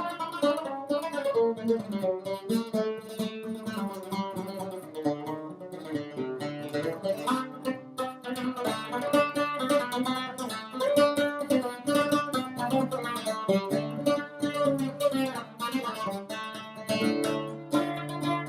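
Lavta, a fretted long-necked lute, improvising with quick plucked melodic notes over a low held note.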